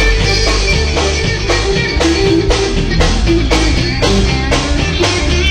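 Live rock band playing an instrumental passage: a drum kit keeps a steady beat of about two hits a second under guitar.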